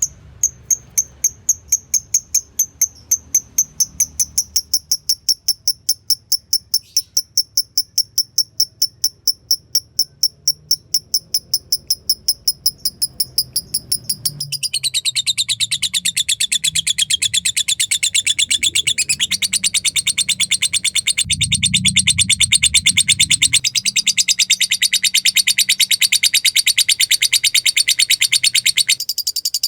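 Fighter lovebird calling: sharp, high-pitched chips at about four a second (the 'ngetik' ticking), then about halfway through it breaks into a long, continuous rapid chatter (the 'ngekek') that stops near the end.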